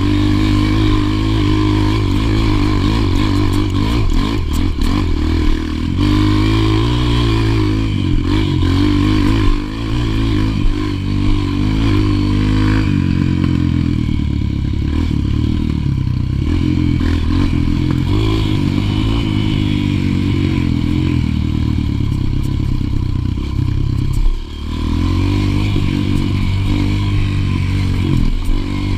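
Honda single-cylinder four-stroke trail bike engine under way, heard close up from the rider's helmet. Its pitch rises and falls with the throttle, and it backs off briefly twice, about a third of the way in and near the end.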